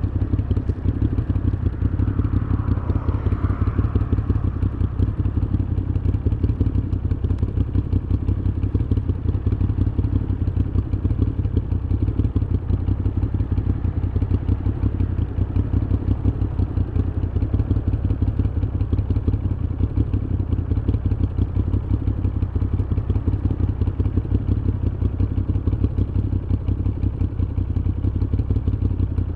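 Moto Guzzi V7's air-cooled transverse V-twin running through an aftermarket Mistral exhaust at steady, unchanging revs, a low, even exhaust pulse throughout.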